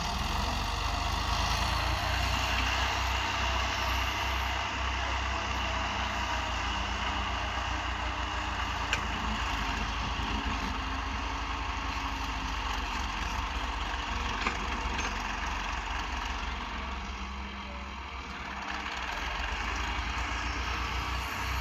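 Fiat 480 tractor's diesel engine running steadily with a low, even throb while leveling soil, with a slight drop in level near the end.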